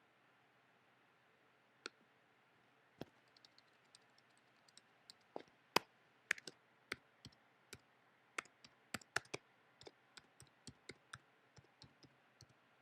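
Faint, irregular clicks of a computer keyboard and mouse. There is a single click about two seconds in and another a second later, then a run of keystrokes at two or three a second that stops near the end.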